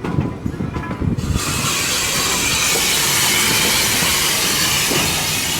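A locomotive at a railway museum suddenly lets out a loud, steady hiss of venting steam about a second and a half in, over a low rumble.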